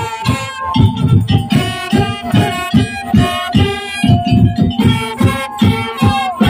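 Madurese daul (tongtong) ensemble music: fast, even drum strokes about four a second under a high, held melody line.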